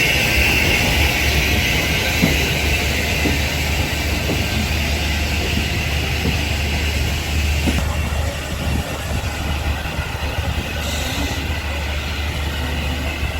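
Steam-hauled passenger train running on the rails, a steady low rumble with a few faint clicks from the track.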